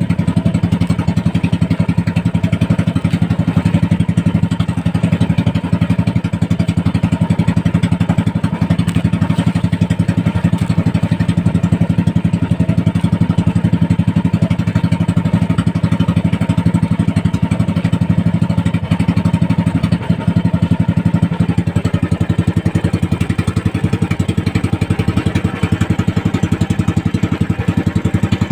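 A fishing boat's small engine running steadily at an even speed, with a fast, regular chugging.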